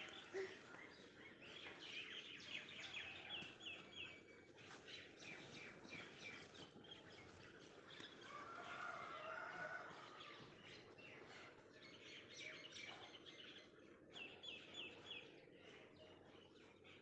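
Faint birdsong: small birds chirping in quick runs of short high notes, with a longer, lower call about eight seconds in, over a steady low background hiss and scattered light clicks.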